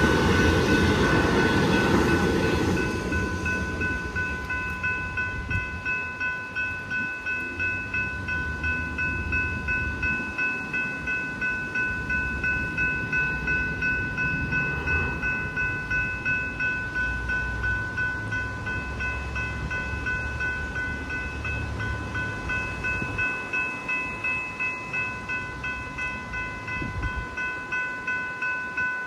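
A train passes over the level crossing, loudest for the first few seconds and then fading to a lower rumble that comes and goes. Throughout, the crossing's electronic bell (E-bell) rings in an even, ringing pulse about once a second, signalling that the crossing is active.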